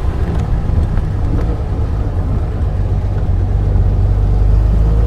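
Mercedes-Benz 300 SL Roadster's 3.0-litre straight-six running as the car drives, a steady low rumble whose note rises slightly near the end.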